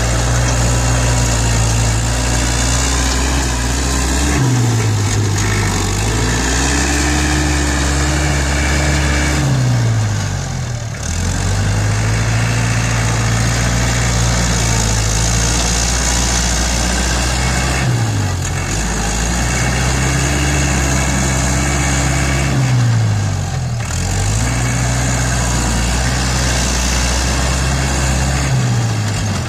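ISEKI NT554 tractor's diesel engine running under varying load while grading and pushing soil. Its pitch drops sharply and climbs back about every five to seven seconds as the load and throttle change.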